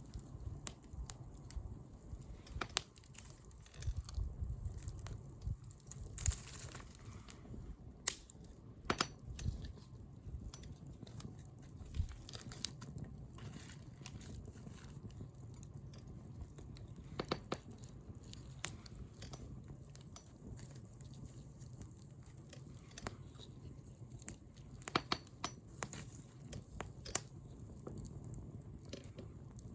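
Wood bonfire burning, with irregular sharp crackles and pops from the burning wood over a low, steady rumble of flame.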